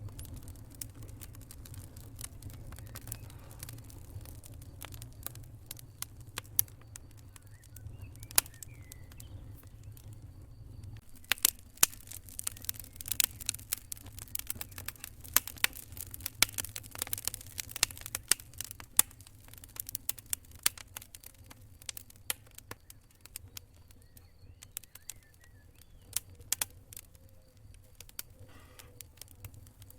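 Wood campfire crackling, with irregular sharp pops and snaps that come thickest in the middle. A low rumble underneath drops away about eleven seconds in.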